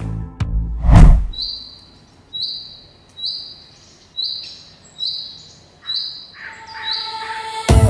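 A bird repeating a short, high, even note about once a second, with a few different calls near the end. Music ends with a loud swell about a second in and comes back just before the end.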